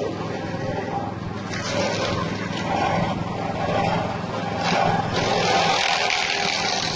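Corn-cob grinding machine driven by a small 6.5 hp engine, running steadily, with a loud rushing hiss that swells in spells, strongest near the end, as material passes through the mill.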